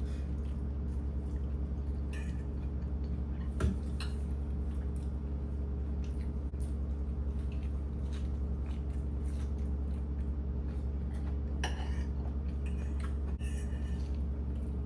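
A few sharp clinks and knocks of dishes and utensils being handled, over a steady low hum.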